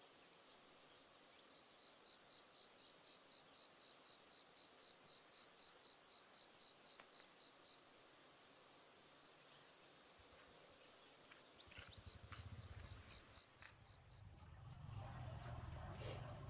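Insects calling: a steady high-pitched buzz, with a cricket chirping at about three chirps a second for several seconds. A low rumble comes in during the second half.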